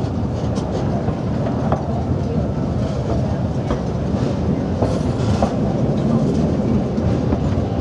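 A passenger car of the Durango & Silverton narrow-gauge steam train rolling along the track: a steady low rumble with a sharp click from the wheels every second or so.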